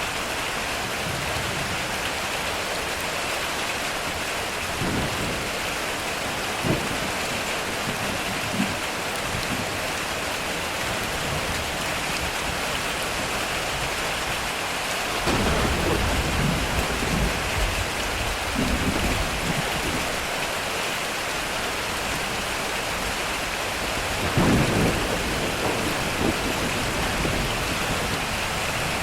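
Heavy rain falling steadily on a metal roof, with two rolls of thunder: one about halfway through lasting a few seconds, and another with a sharper start a few seconds later.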